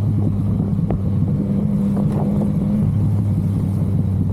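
Yamaha MT-09's three-cylinder engine running at steady cruising revs, a constant low drone with no revving.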